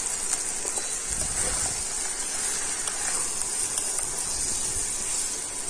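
Mutton pieces in spiced oil sizzling steadily in a kadai while a spatula stirs them through to mix in salt and sugar.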